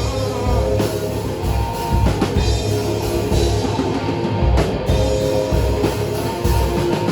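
Rock band playing an instrumental passage: drum kit keeping a steady beat under electric guitar and bass.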